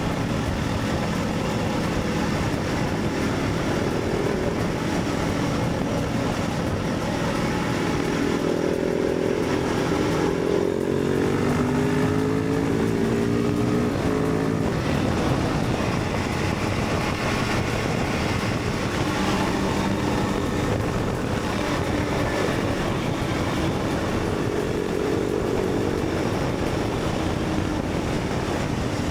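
Motorcycle riding on the road, engine running under a steady rush of wind noise; a little over a quarter of the way in, the engine note rises and falls in pitch for several seconds, and it does so again more faintly later.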